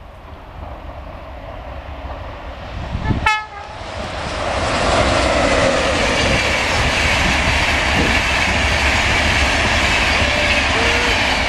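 A passenger train sounds a short horn toot about three seconds in, then passes close by at speed with a steady rush of wheels on rail.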